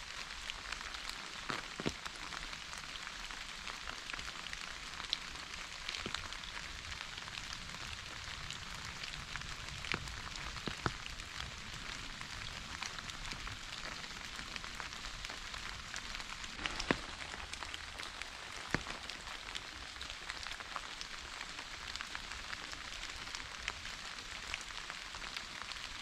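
Steady rain falling, an even hiss, with individual drops ticking out of it here and there and a handful of sharper, louder drop hits scattered through.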